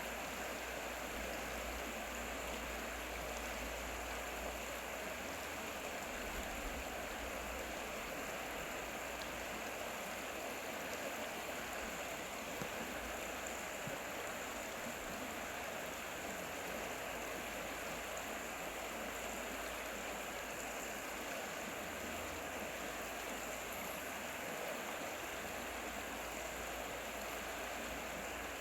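Stream water flowing, a steady rushing that runs on without change.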